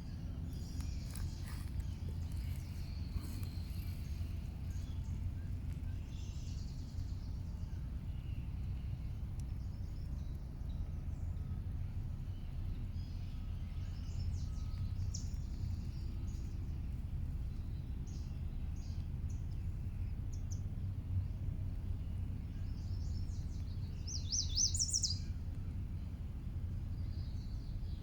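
Songbirds chirping in short scattered calls, with one louder quick run of chirps near the end, over a steady low rumble.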